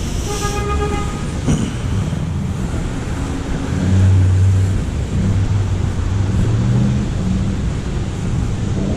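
Street traffic, with a short horn toot about half a second in and a low vehicle engine rumble passing from about three and a half to seven seconds.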